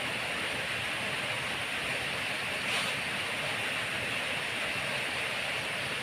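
Steady rain falling, an even hiss with no pauses, and one faint brief tap about three seconds in.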